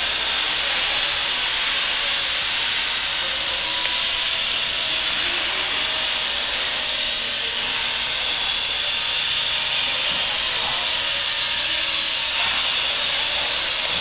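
Small electric RC helicopter in flight, a steady hissing whir of rotors and motor.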